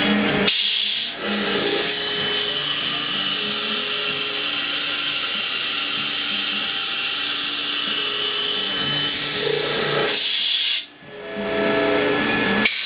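A power tool or machine tool running steadily with a high whine. It cuts out briefly near the end.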